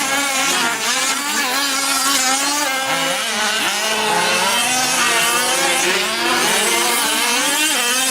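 Several small two-stroke gas engines of fifth-scale RC off-road trucks racing at once, their pitches rising and falling and overlapping as they accelerate and lift off around the track.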